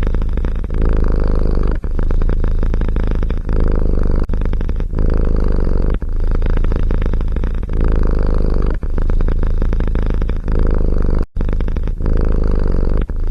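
Domestic cat purring loudly close to the microphone: a steady, rapidly pulsing rumble with brief breaks every one to two seconds.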